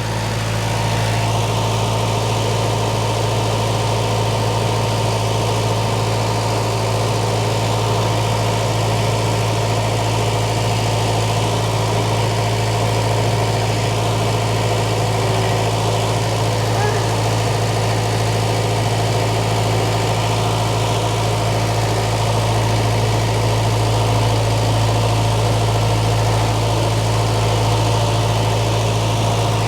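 Case 1840 skid-steer loader's diesel engine running at a steady speed, an even drone with no rise or fall in revs.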